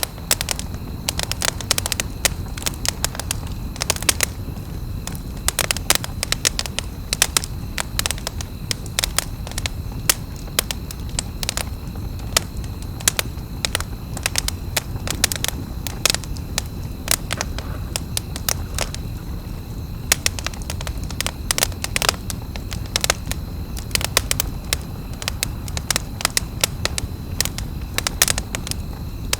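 Campfire crackling: irregular sharp pops and snaps, many a second, over a steady low rumble.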